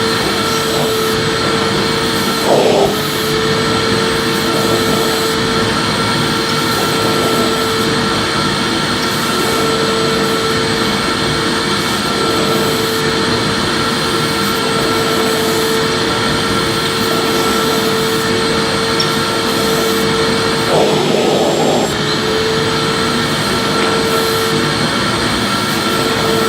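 Electric vacuum cleaner running steadily: an even rushing noise with a constant whine. Its sound briefly changes twice, about three seconds in and again around twenty-one seconds.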